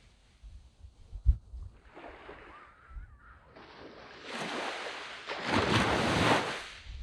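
Sea waves on a sand beach: after a lull, a wave swells and washes up the shore over the second half, then fades. A brief low thump about a second in is the loudest single sound.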